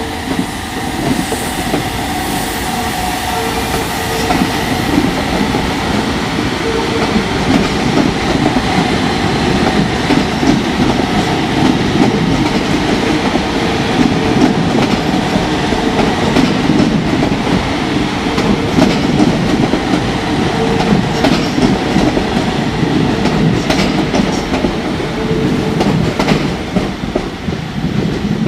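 A train passing close by: a loud, steady rolling rumble with a few faint steady tones, and a run of sharp clicks in the later part.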